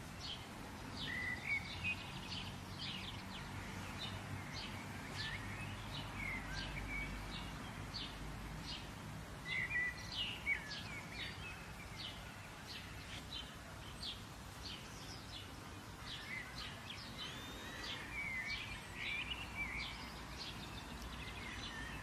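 Small songbirds chirping outdoors, several short high chirps a second with a few twittering calls, over a low steady background rumble.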